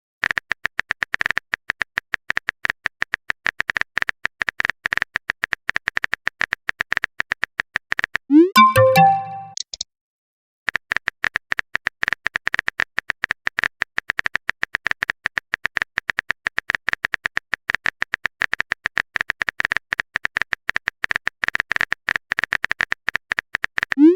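Rapid, uneven clicking of a chat-app typing sound effect, broken about eight seconds in by a short message-notification chime with a rising tone. After a pause of a couple of seconds, the typing clicks resume.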